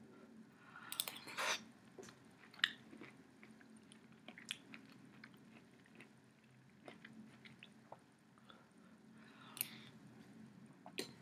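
A person eating chicken soup from a spoon close to the microphone: chewing and wet mouth noises with scattered short clicks and smacks. There are louder bursts about a second in and again near the end, as the spoon goes to the mouth.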